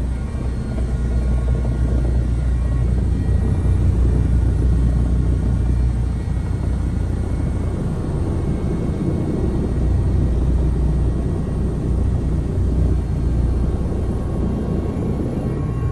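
Helicopter running steadily overhead: a continuous low rumble of engine and rotor, with no sudden changes.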